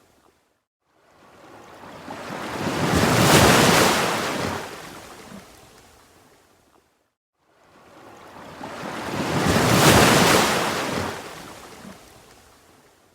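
Ocean waves breaking and washing back. Two waves come in: each builds over a couple of seconds to a full hiss of surf, then fades out, with a short, almost silent lull between them.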